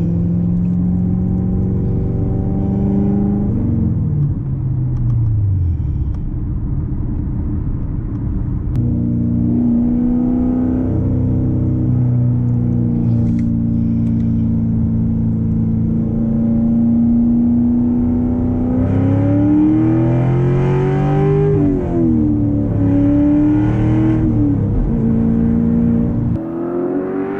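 Straight-piped V8 exhaust of a 2014 Corvette Stingray with long-tube headers, running at a steady cruise. The revs sink about four seconds in, hold level for a long stretch, then climb and drop sharply twice near the end, as in upshifts under acceleration, before climbing once more.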